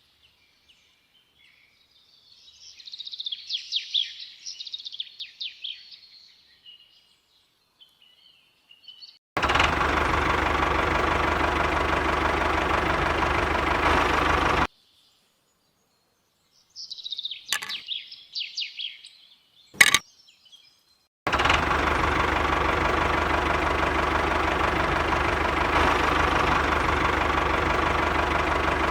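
Birds chirping, cut between two stretches of a steady, loud machine running sound of a small engine or motor that start and stop abruptly. A single sharp click sounds between them.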